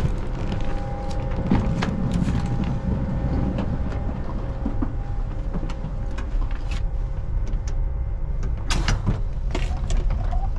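Steady low rumble and faint hum of a train, with scattered knocks and clicks and a short cluster of louder knocks near the end.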